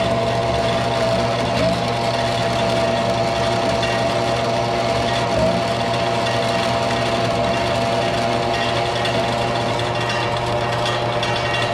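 Small band saw running steadily with an even motor hum, its blade cutting a small workpiece.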